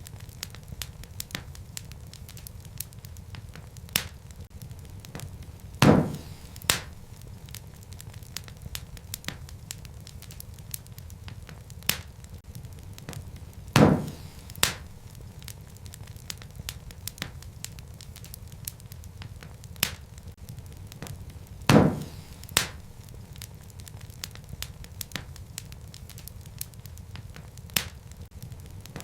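Wood fire burning in a fireplace: a steady low rumble with constant small crackles, and louder sharp pops of burning wood about every eight seconds, each followed quickly by a smaller pop.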